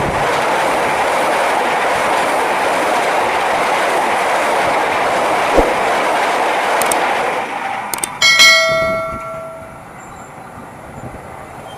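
Passenger train carriages running past at close range, a steady loud rushing clatter that fades away about eight seconds in. Just after, a couple of clicks and a short bright chime.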